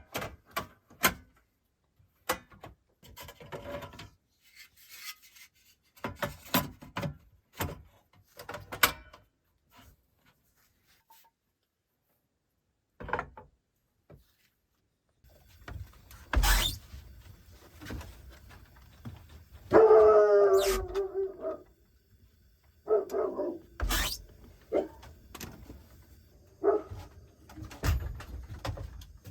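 A dog barking and whining in short calls through the second half, the longest and loudest about twenty seconds in. Scattered knocks and clicks run through the first half.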